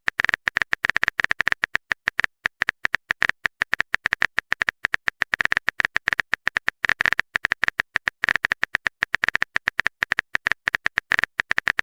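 Typing sound effect: rapid, irregular, sharp clicks, several a second, as text is typed out letter by letter.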